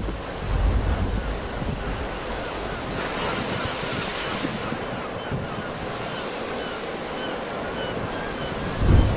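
Sea waves washing onto the shore in a steady surf hiss, one wave swelling about three seconds in. Wind buffets the microphone in low rumbling gusts shortly after the start and again near the end.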